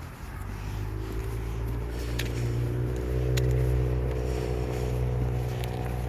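A vehicle pulling away over a low rumble, its engine or motor pitch rising slowly and steadily as it gathers speed. A couple of light sharp clicks are heard in the middle.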